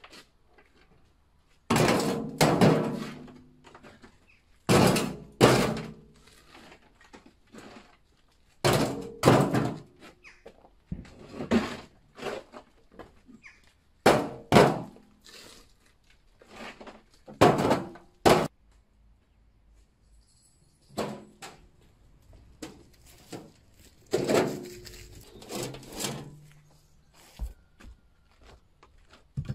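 Demolition blows: a series of heavy thuds on wood, coming every second or two at an uneven pace, some with a short ringing knock after them, with a brief pause past the middle.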